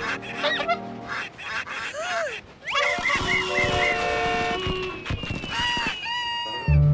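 Cartoon ducks quacking, among rising and falling whistle-like sound effects.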